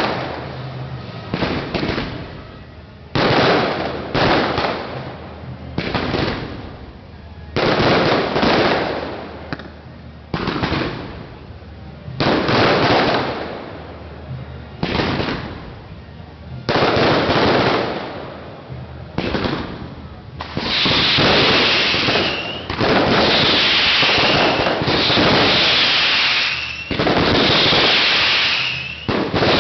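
Fireworks going off: separate bursts about every two seconds, each trailing away, then from about twenty seconds in a dense, nearly continuous barrage of bursts and crackle, the closing bouquet, with a recurring falling whistle.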